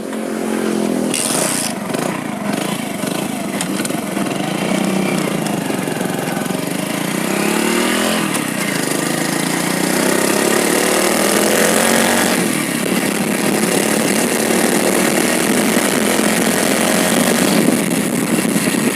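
Hero Splendor Plus's single-cylinder four-stroke engine running, its pitch rising, dropping back about eight and twelve seconds in, then rising again. The whining from the transmission is gone now that the worn primary drive gear has been replaced.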